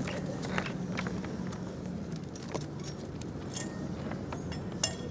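Background of a bowls game between deliveries: a steady low hum with scattered small clicks and knocks, the sharpest near the end.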